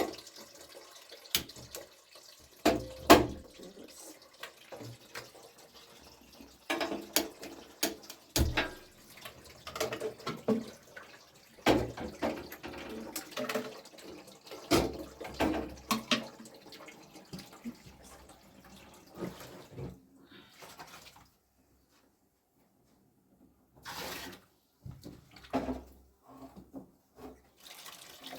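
Water splashing and trickling with irregular clinks and knocks of dishes or utensils being handled, as in washing up at a basin. It drops to dead silence about two-thirds of the way through, then a few more knocks follow.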